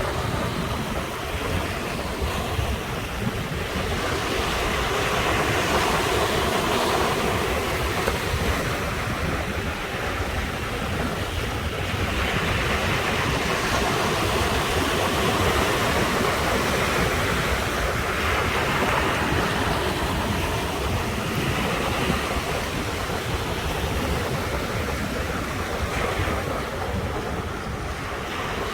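Sea waves breaking and washing on the shore: a continuous surf that swells and eases about every six seconds.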